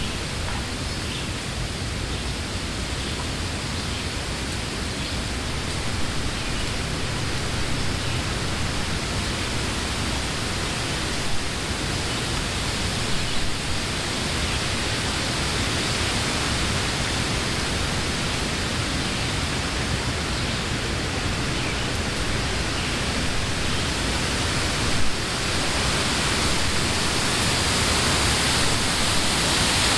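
Wind blowing through leafy summer trees: a steady, dense rustle of leaves that swells gradually louder toward the end, with a few brief louder gusts or knocks.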